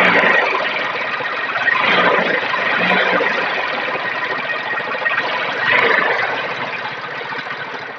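Honda Unicorn single-cylinder motorcycle engine running with a steady 'tik tik tik' ticking from the valve train, swelling in level a few times. The ticking is the sign of loose tappets (excess valve clearance), which the mechanic suspects and later finds.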